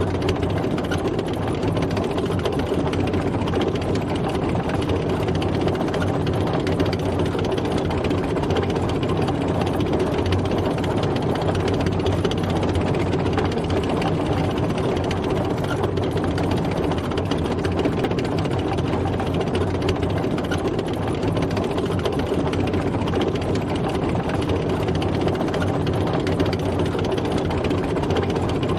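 Tank driving, its heavy engine running steadily with an even drone.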